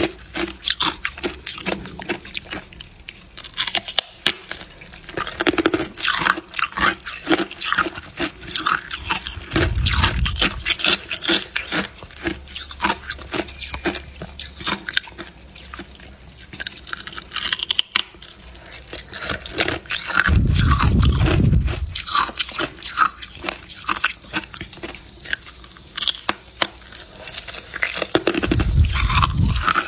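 A person biting and chewing hard clear ice close to the microphone: a steady run of sharp crunches and cracks. Three low rumbles come about ten, twenty and twenty-eight seconds in.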